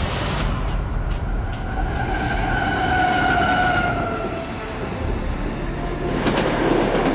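Long container freight train passing close by: a steady rumble of wheels and wagons. A horn sounds for about three seconds from about a second and a half in, its pitch sliding slightly down as the train passes, and the rattle and hiss of the wagons grow louder near the end.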